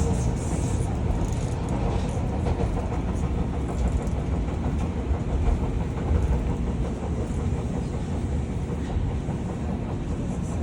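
Osaka Metro subway train running between stations, heard from inside the car: a steady rumble of wheels on the rails and running gear.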